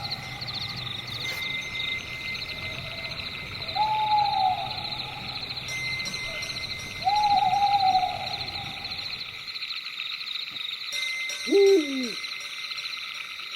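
An owl hooting twice, each hoot about a second long and falling slightly in pitch, over a steady high chirring chorus. Near the end comes one shorter call that slides steeply down in pitch.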